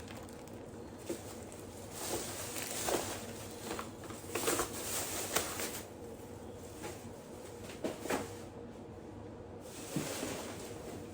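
Irregular rustling of plastic grocery bags with a few soft knocks as items are handled and taken out.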